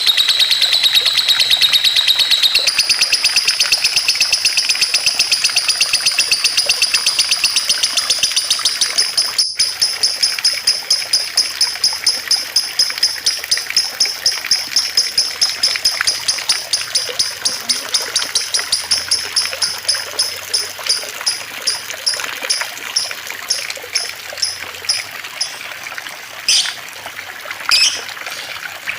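Songbird singing a long trill of rapid repeated high notes that gradually slows to a few notes a second, with two louder calls near the end; water trickles underneath throughout.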